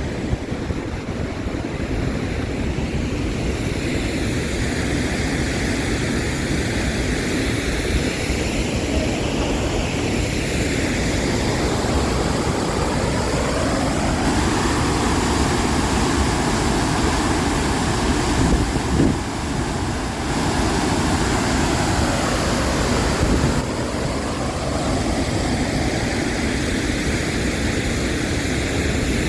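Steady roar of a large waterfall, a continuous rush of falling water.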